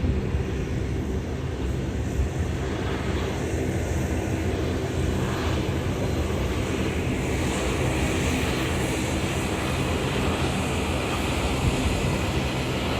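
Jet airliner engine noise, a steady rumble with a hiss that grows stronger from about halfway through, with wind buffeting the microphone.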